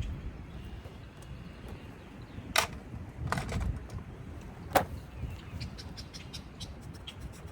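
Low wind rumble on an outdoor microphone, with a few sharp knocks a little over two and a half seconds and nearly five seconds in, then a run of faint quick ticks toward the end.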